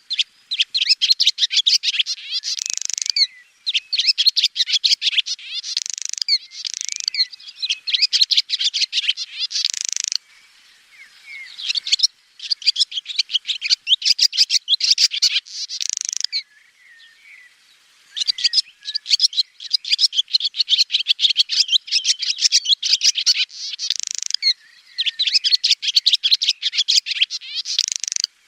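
Swallow singing: rapid, bright twittering in repeated phrases a few seconds long, with brief pauses between them.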